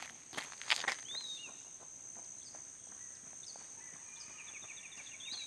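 Two footsteps in the first second, then birds calling over a steady high-pitched insect drone. Near the end a bird gives a fast trill of repeated notes.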